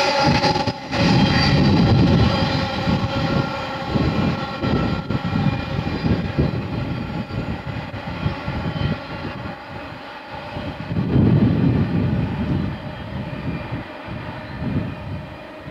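Freight train receding: the engine of a Class 60 diesel locomotive drones steadily and fades away, over the uneven low rumble of empty box wagons running away on the rails.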